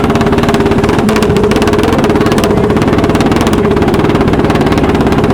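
Car engine with a loud exhaust held at high revs at a steady pitch, rattling out rapid firing pulses, as in a rev-off for the loudest car.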